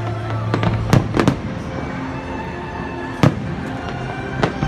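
Fireworks display: aerial shells bursting in sharp bangs, a quick cluster of them about a second in, then single loud ones a little after three seconds and near the end. Background music with held notes plays underneath.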